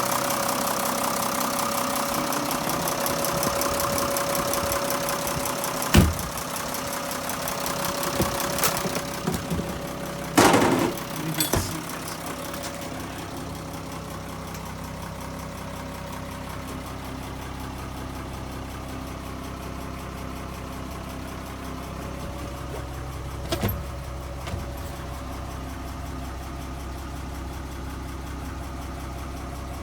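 Vehicle engine idling steadily, its low hum growing fuller after about twelve seconds. A few sharp knocks cut through it, the loudest about six seconds in and around ten to eleven seconds in.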